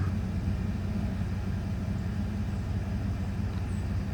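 A steady low motor hum, like an idling engine, with a faint short high chirp near the end.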